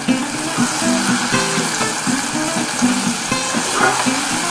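Onions, tomatoes and spices sizzling steadily in hot oil in a pot while being stirred with a metal spoon.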